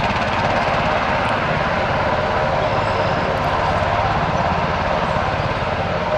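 Military helicopter running close by: a loud, steady mix of turbine noise and rapid, even rotor-blade chop.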